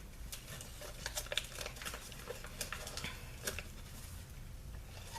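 Soft rustling with scattered light clicks as a small folded paper guide leaflet is handled.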